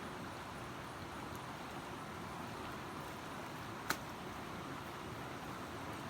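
A steady, even rush of background noise, with one sharp click about four seconds in.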